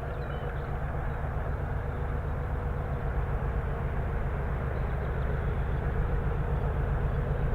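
Heritage diesel locomotive engine running with a steady low throb, growing slowly louder.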